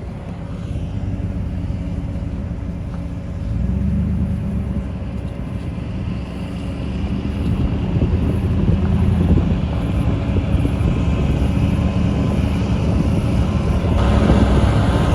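A motor vehicle running: a steady low engine and road rumble that swells about four seconds in and grows louder near the end.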